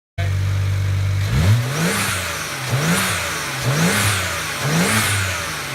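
BMW 335i turbocharged straight-six, fitted with open dual cone intakes, idling briefly and then blipped four times about a second apart, each rev rising and dropping back.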